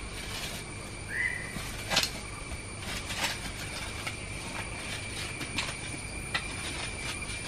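Steady high-pitched insect drone with scattered clicks and knocks, and one short rising chirp about a second in.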